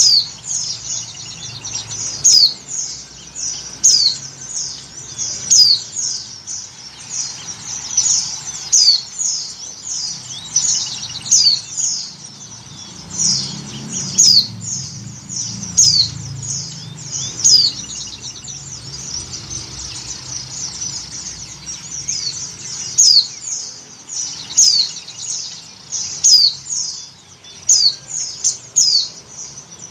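Female white-eye (pleci) calling: a steady series of short, high, thin chirps that curve downward in pitch, with louder notes every second or two and fainter ones between. These are the calls of a female in breeding condition, calling for males.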